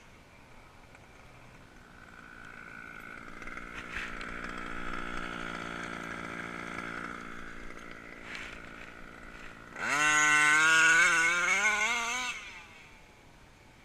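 The 29cc two-stroke reed-valve engine of an HPI Baja RC car running at a distance, growing louder over the first few seconds. About ten seconds in it comes close and revs hard, its pitch climbing for about two seconds, then it drops away quickly.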